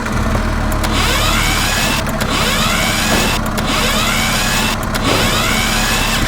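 A motor running steadily, with repeated falling, whooshing sweeps high above it.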